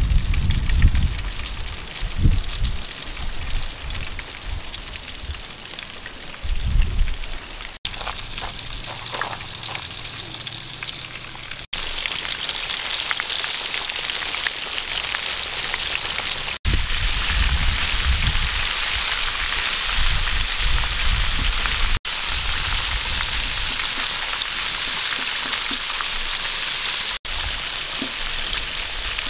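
Breaded fish deep-frying in hot oil in a wok: a steady, dense sizzle that grows fuller after the first dozen seconds. A few low thumps sound in the first few seconds.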